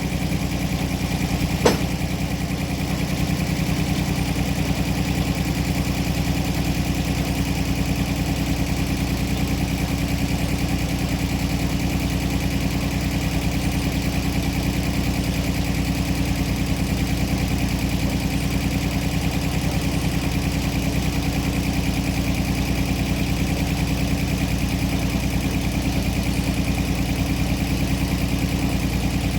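An engine running steadily at an even speed, with one sharp click about two seconds in.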